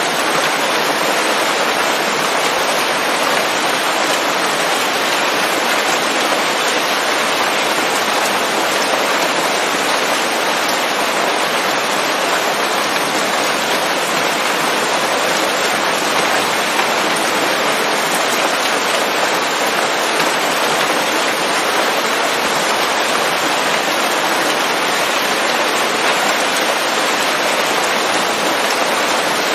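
Steady heavy rain falling on leaves, a dense even patter that doesn't change.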